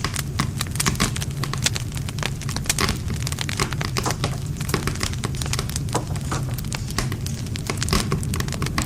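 Wood campfire burning: many quick crackles and pops from the burning wood over a steady low rumble of the flames.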